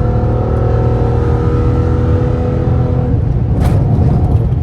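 Straight-piped 5.7-litre HEMI V8 of a 2013 Dodge Charger R/T pulling hard under acceleration, its exhaust note held high and steady, then dropping back about three seconds in as the throttle eases. A short burst of noise comes near the end.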